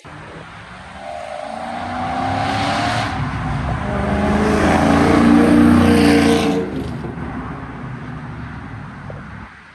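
Sports car accelerating past with its engine revving, rising in pitch; it grows loudest about six seconds in, then fades as it drives away.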